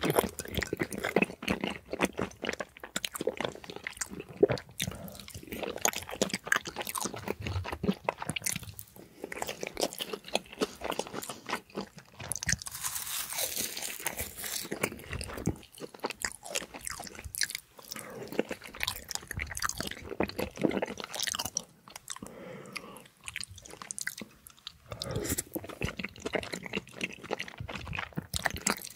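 Close-miked eating sounds of a man chewing rose tteokbokki rice cakes in a creamy sauce with fried foods, wet chewing mixed with crunching. A brighter, crisper stretch of crunching comes about halfway through.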